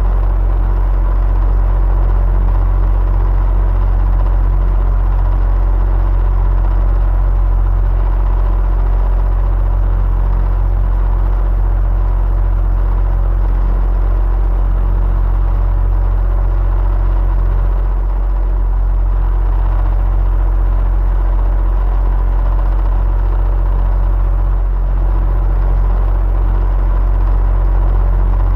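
Electric fan running steadily: a constant low rumble with a whir of moving air and a faint steady tone above it.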